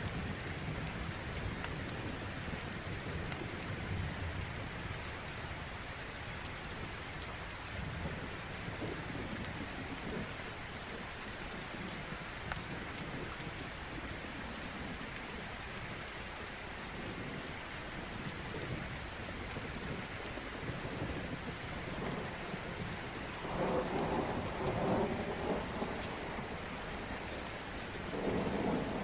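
Steady rain pattering, with a low roll of thunder early on and two louder rolls of thunder near the end. Fine crackles from a log fire sound over the rain.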